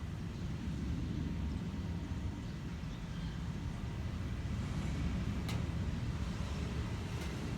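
Airbus A330-243F freighter's twin Rolls-Royce Trent 700 turbofans at takeoff thrust: a steady low rumble, with a brief click about five seconds in.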